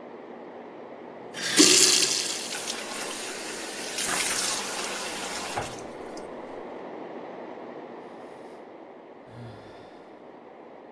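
Water running hard from a wall tap into a sink, turned on about a second and a half in and shut off a little past the middle, followed by a faint steady hiss.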